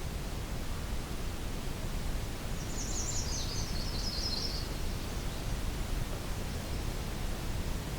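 A wood warbler sings one short, high song about three seconds in: a quick series of notes stepping down in pitch, lasting about two seconds. Steady low background noise runs underneath.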